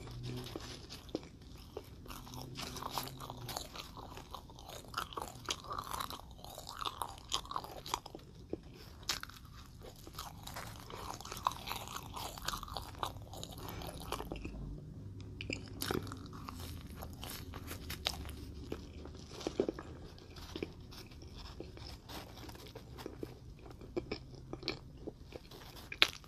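Close-miked chewing and biting of sticky green marshmallow chicks, with many small, irregular wet clicks and squishes of the mouth.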